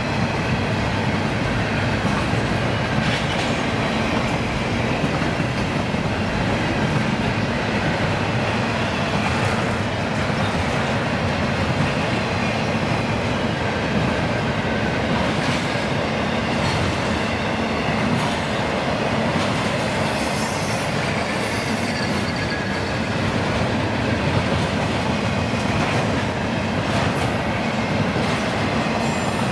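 Railroad cars rolling steadily past on the track, with scattered clicks from the wheels and a faint high squeal.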